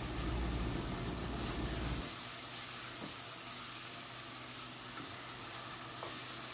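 Chicken in ghee and masala sizzling in a pot, with a wooden spatula stirring it and a few soft scrapes against the pot. The oil has separated out at the dry roasting (bhuna) stage.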